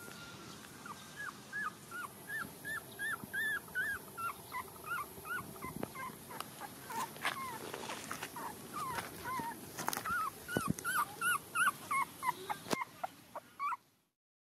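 Young puppies whimpering: a steady run of short, high-pitched squeaky cries, several a second, with a few clicks among them, cutting off suddenly near the end.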